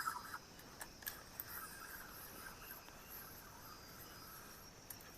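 Faint night insects, crickets among them, chirring steadily, with a couple of faint clicks about a second in.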